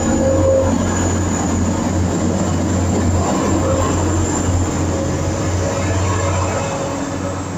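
TransPennine Express diesel multiple unit pulling out of the station, its engine and wheels running steadily with a thin high whine, gradually fading near the end as it moves away.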